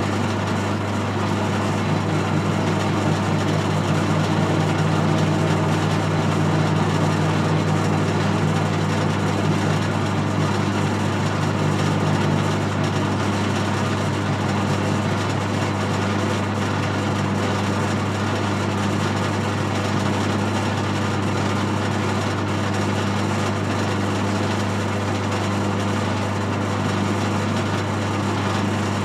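Metal lathe running steadily with a motor hum while a parting tool is fed into the spinning workpiece. A second, slightly higher tone joins about two seconds in and stops about halfway through.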